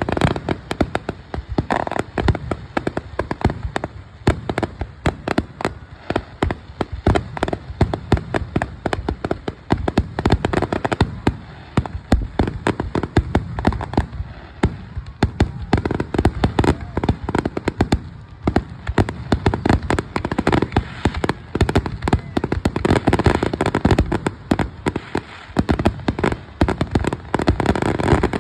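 Consumer fireworks finale: a continuous barrage of rapid bangs and crackling reports, many per second, easing slightly about halfway through before picking up again.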